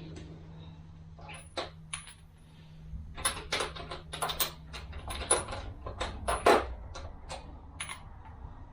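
Steel sockets clinking and rattling, a quick run of sharp metallic clicks as they are picked through and tried for size against a transmission bushing.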